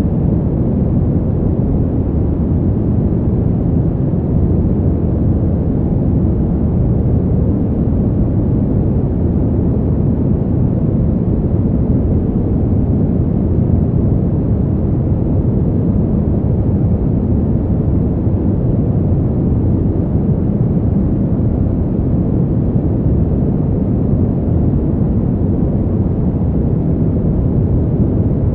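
Winter wind ambience: a deep, even rush of noise with no gusts, breaks or changes.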